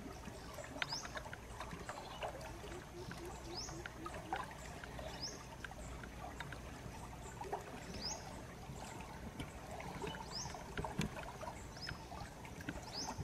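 A bird's short, high chirp repeated about six times, every two to three seconds, over a steady low rumble and faint scattered clicks.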